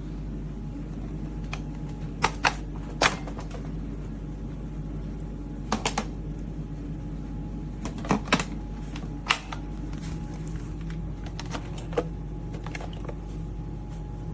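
Shark HydroVac cordless wet-dry vacuum-mop running with a steady motor hum, with a dozen or so sharp clicks and clacks scattered through it, loudest about two, three, six, eight and nine seconds in.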